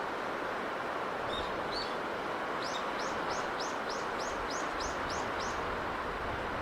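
A bird sings a fast run of about ten repeated high chirps, a little more than three a second, after two single chirps, over a steady rushing hiss of sea and breeze.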